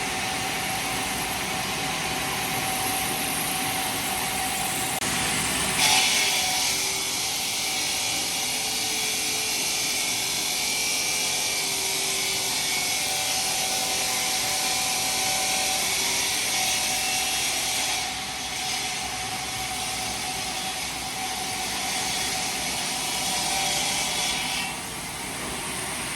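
Steady machinery noise that changes character abruptly about six seconds in and again near the end, as the sound cuts between different running machines.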